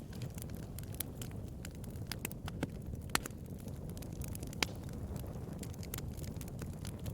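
Bonfire burning and crackling: a steady low rumble of flames with irregular sharp snaps and pops throughout, two louder pops near the middle.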